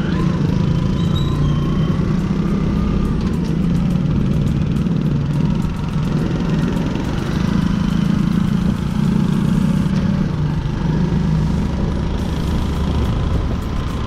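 Steady road noise of riding on a two-wheeler: a continuous low engine and road rumble with passing traffic.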